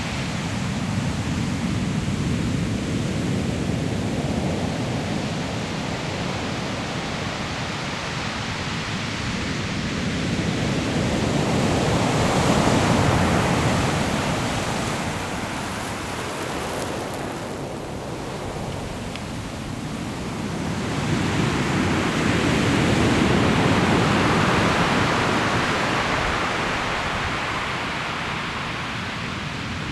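Ocean surf breaking and washing on a pebble shore: a continuous rushing noise that swells to a peak twice, about 12 and 23 seconds in, with a quieter lull between.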